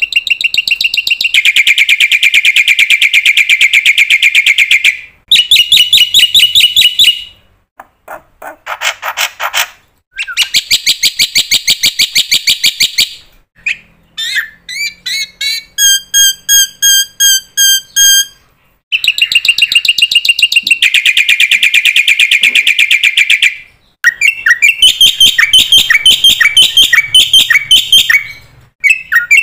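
A songbird singing loudly in long, rapid trills and varied phrases, with short pauses between them.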